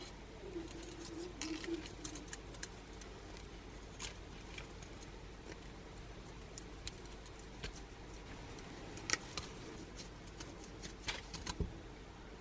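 Faint, irregular metallic clinks and clicks from small metal parts being handled, with a couple of sharper clicks about nine seconds in and again near eleven seconds.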